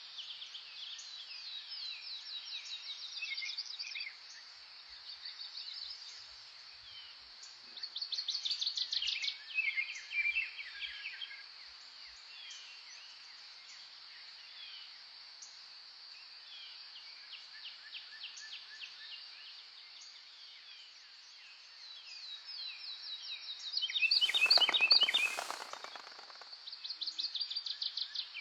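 Several songbirds singing in a dawn-chorus mix, with repeated fast high trills and chirps over a steady background hiss. Near the end a louder, close rapid rattling burst lasts about two seconds.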